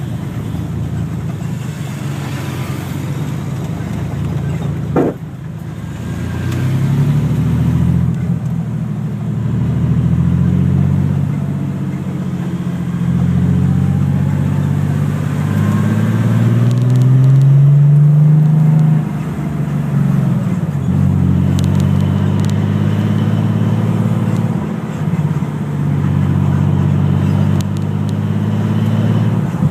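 Car engine pulling away and accelerating, its pitch climbing and dropping back several times as it shifts up through the gears, over road and wind noise. A short sharp knock sounds about five seconds in, just before the engine starts to climb.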